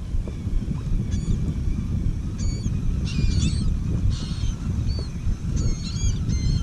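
A flock of seabirds working over a school of feeding trout, giving short, high calls again and again, about ten in a few seconds, over a steady low rumble.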